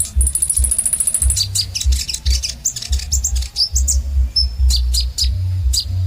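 Kolibri ninja sunbird singing: a fast, high-pitched trill for about the first second and a half, then a rapid string of sharp, high chirps that drop steeply in pitch. A steady low rumble runs underneath.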